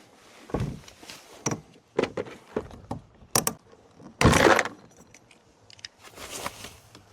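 Knocks, clicks and rattles as a kayak pedal drive is lifted and handled, with a louder half-second clatter about four seconds in.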